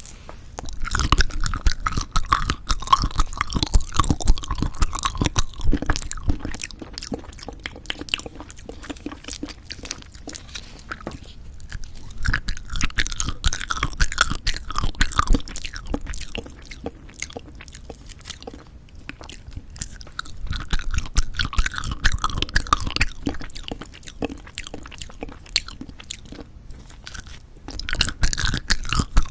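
Jelly candy being chewed close to the microphone, in four bouts of dense clicking bites with quieter pauses between them.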